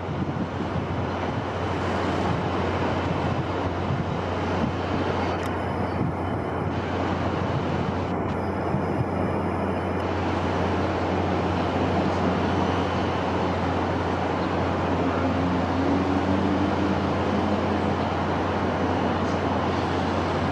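Steady rushing wind with a constant low hum underneath.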